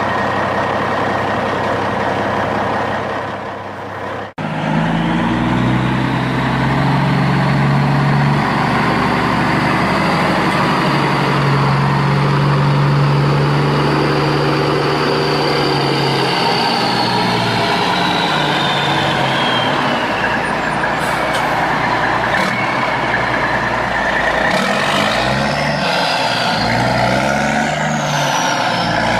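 Truck engine running, its pitch shifting up and down in steps, after an abrupt cut about four seconds in.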